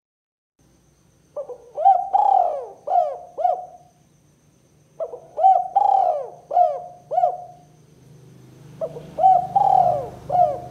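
Spotted dove (tekukur) cooing the 'kuk 2' call, three phrases of about five coo notes each, a second or so apart.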